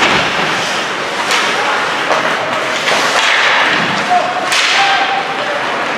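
Ice hockey play: several sharp cracks of sticks and puck, about five in six seconds, over a steady arena hiss with voices calling out.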